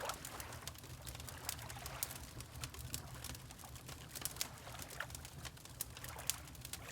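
Wood fire crackling and popping in a fireplace, with water lapping softly in a slow irregular rhythm over a steady low rumble.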